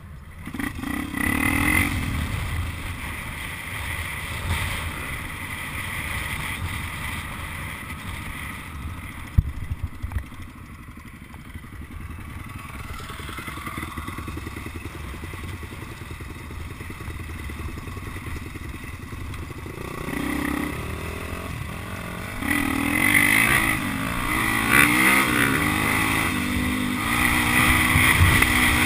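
Dirt bike engine running, with rises and falls in revs that grow louder in the last several seconds. There is one sharp knock about nine seconds in.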